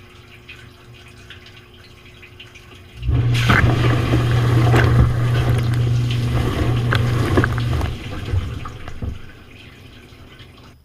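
Dishwasher pump motor starting about three seconds in, a steady low hum with rushing, splashing water, heard from inside the tub; it runs for several seconds and then dies away near the end.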